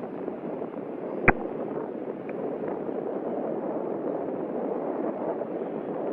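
Steady radio hiss on an air traffic control frequency between transmissions, with one sharp click about a second in.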